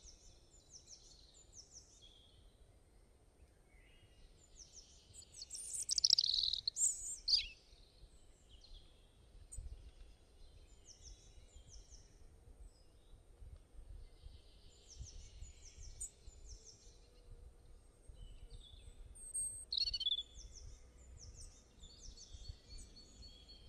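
Several small birds chirping and singing in short, repeated high phrases, with louder bursts of song about six seconds in and again near twenty seconds, over a faint low rumble.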